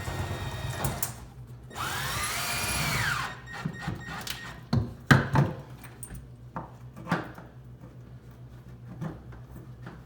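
Power drill driving in a microwave mounting bolt in one run of about a second and a half, starting about two seconds in, its whine rising and then falling. Several sharp knocks and clicks follow.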